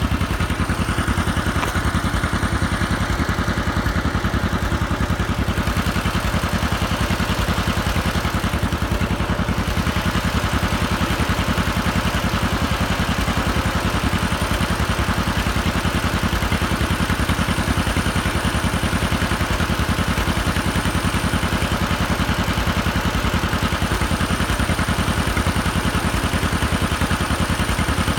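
An old vehicle engine running steadily at a constant speed, with an even, rapid firing beat.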